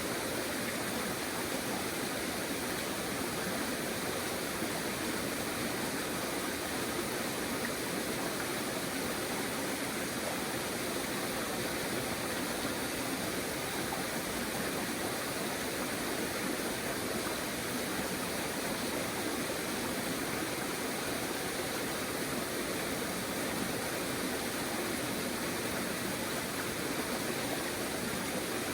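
River water flowing, a steady rushing without change.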